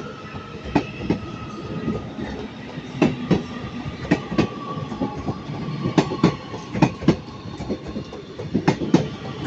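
Northern Class 331 electric multiple unit pulling out of the station, its wheels clicking over rail joints and points in an uneven run of sharp knocks, with a faint steady whine beneath.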